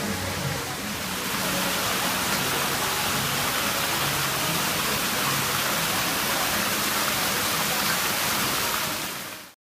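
Steady rushing water noise, like a rainstorm or a waterfall, growing louder about a second in and fading out quickly near the end.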